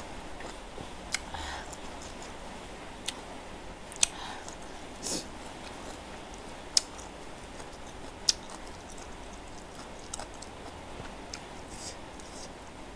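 Close-miked chewing of spicy instant noodles: soft mouth sounds with sharp clicks and smacks every second or two, over a steady hiss.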